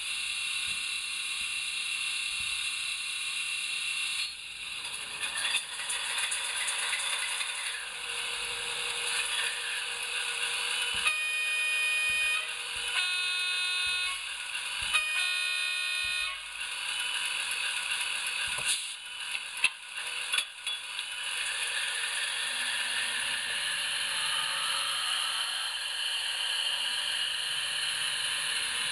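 HO-scale model diesel locomotive's sound decoder playing a diesel engine running, through the model's small speaker. Midway it sounds three horn blasts, each over a second long, followed a few seconds later by a cluster of sharp clicks.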